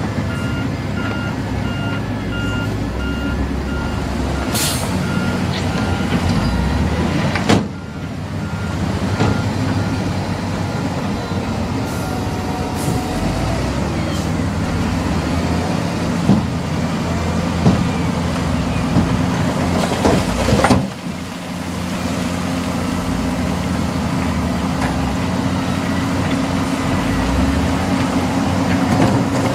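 Heavy diesel engines of a dump truck and bulldozer running, with a truck's reversing beeper sounding steadily through the first dozen seconds. A few short, sharp sounds break in, once about a third of the way through and again past the middle.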